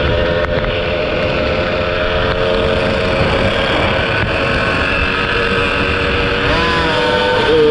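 Two-stroke motorcycle engine running at steady high revs while riding, with heavy wind noise over it. Near the end the engine pitch shifts and climbs as it revs up.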